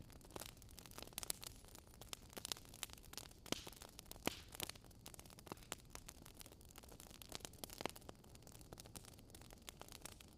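Wood fire crackling, with irregular sharp pops of varying loudness over a faint hiss.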